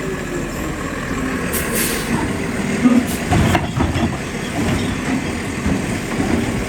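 Garbage truck's diesel engine running, its pitch dropping slightly at the start, with a short hiss of air around one and a half seconds in and loud clanks and a thump about three seconds in.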